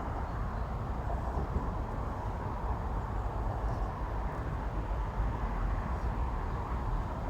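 Steady low rumble of road traffic on the bridge overhead, with no distinct events.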